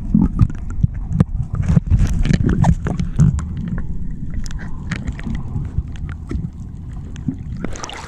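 Wind buffeting the microphone: a loud low rumble with many irregular thumps and crackles. Near the end it eases into a steadier low hum with a hiss.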